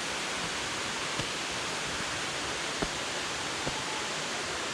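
Steady rushing of waterfall water, an even hiss with a few faint clicks over it.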